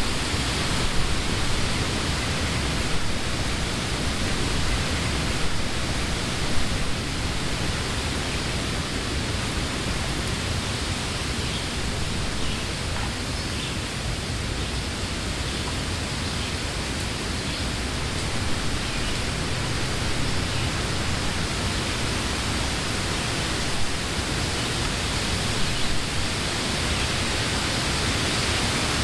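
Wind blowing through trees, a steady rushing of leaves with a low rumble, swelling and easing slightly, with a few brief louder puffs.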